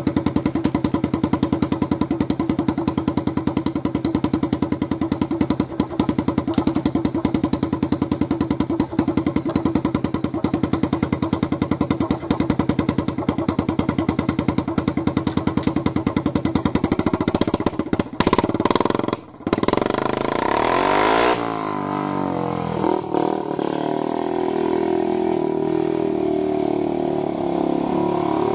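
Honda TRX90's small single-cylinder four-stroke engine running with its muffler removed and only an exhaust tip on the pipe, an even rapid popping beat at idle. About 19 s in the sound breaks off briefly, the pitch sweeps up and down, and the engine then runs on steadily at a higher speed.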